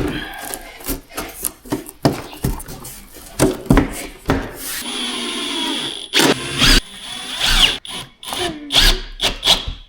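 A power drill driving screws into wooden blocking, in several short runs with a steady stretch about halfway through, between sharp knocks of wood and tools being handled.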